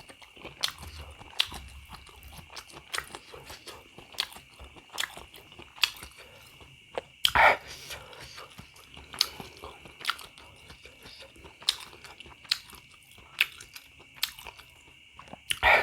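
Close-miked chewing and biting of meatballs: many short, sharp, wet mouth clicks and smacks, with one louder bite about halfway through.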